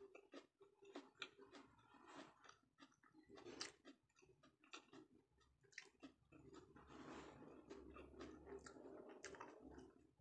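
A person chewing a mouthful of sushi with the mouth closed, faint and close to the microphone: many soft wet clicks and smacks, with a longer, steadier stretch of chewing in the second half.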